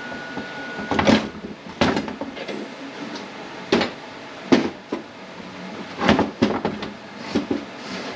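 Irregular clunks and knocks of metal transmission parts being handled and fitted on a ZF 9HP48 automatic transmission, about a dozen spread unevenly over the eight seconds, with a thin steady whistle during the first second.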